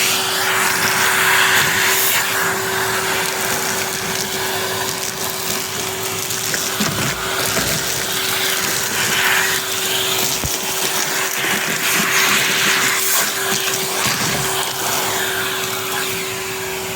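Numatic Henry canister vacuum cleaner running steadily, a constant motor whine under a rushing suction hiss that swells and eases as the nozzle works over the hearth.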